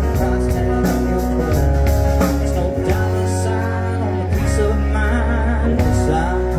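Country band playing between sung lines: guitar over a steady bass line and drum kit.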